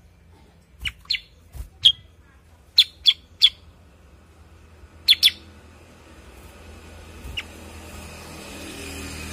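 Cucak kurincang giving short, sharp chirps, mostly in quick pairs, about ten in the first five seconds, then a single fainter chirp. A faint hiss rises in the background near the end.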